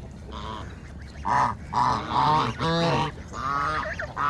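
Domestic geese honking, a run of about six short calls starting about a second in.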